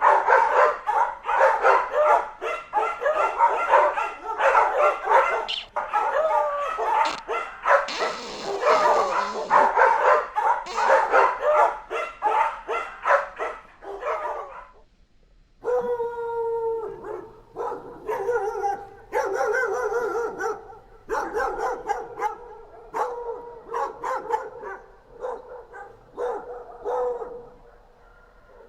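A pack of dogs barking, many voices overlapping in a dense, continuous barrage. About halfway through it cuts off suddenly, then the barking resumes more sparsely, with a few longer drawn-out notes among the barks.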